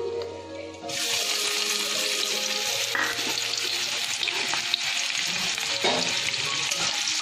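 Chopped onion going into hot oil with fried whole spices in a kadai: a sudden sizzle about a second in, then a steady frying hiss as the onion fries.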